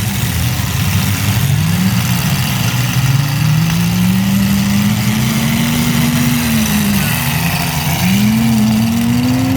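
Several mini truck engines revving as they race on a dirt track, their pitch climbing and falling with each throttle change; one engine drops off about seven seconds in and then climbs again.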